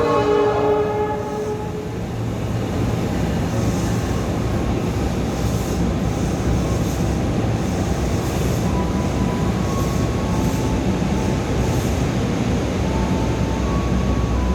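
Electric commuter train running into the station: a steady rumble of wheels and motors on the track, with short high hisses now and then.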